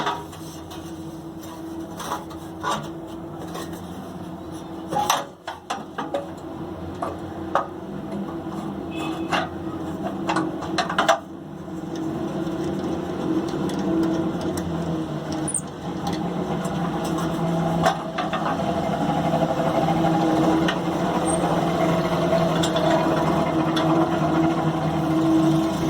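Scattered metal clinks and knocks of a silencer being fitted and bolted onto a small generator's engine head. From about halfway a steady machine hum sets in and slowly grows louder.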